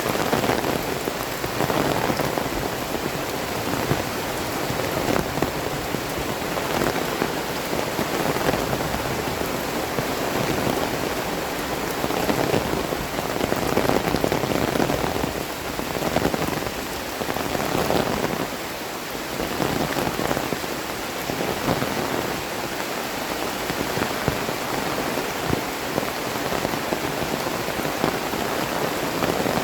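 Heavy rain pouring steadily, a dense hiss of rain on the ground and surfaces that swells louder and softer every second or two.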